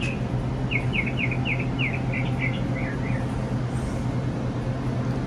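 A songbird sings a quick run of about eight high chirps that step down in pitch, over a steady low mechanical hum.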